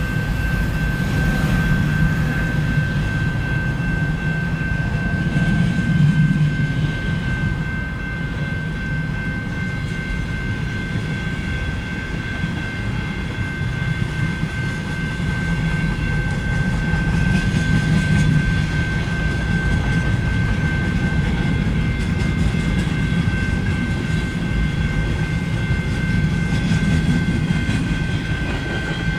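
Freight cars of a passing manifest train rolling by, a steady low rumble that swells and eases every few seconds, with a steady high whine over it, heard from inside a van.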